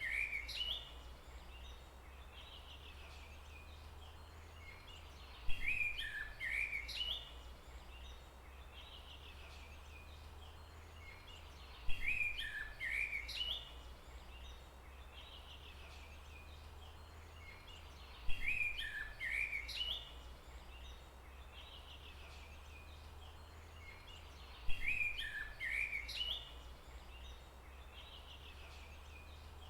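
A songbird singing the same short chirping phrase over and over, about every six seconds, each phrase opening with a sharp note and lasting about two seconds, over a faint steady low rumble.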